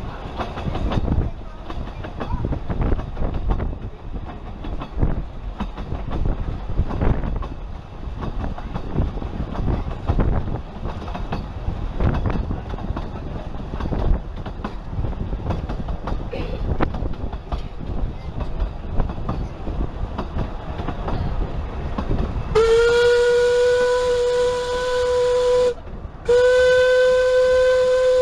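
Narrow-gauge heritage train running, heard from on board: a steady rumble with irregular clatter of the carriage on the rails. Near the end the locomotive's whistle sounds two long blasts, each about three seconds, with a short break between them.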